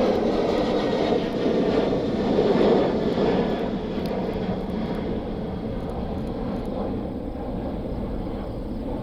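Jet airliner engines running, a steady noise loudest about two to three seconds in, then slowly fading as the aircraft moves away.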